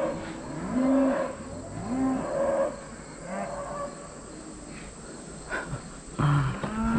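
Herd of cattle mooing and bellowing, excited at feeding time: several long calls overlap, about one a second at first, then fainter ones, and a louder call near the end.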